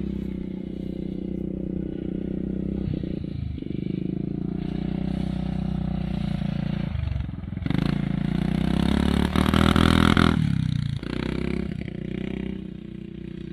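ATV engine running under a rider, its speed rising and falling; it revs up to its loudest about eight to ten seconds in, then drops back.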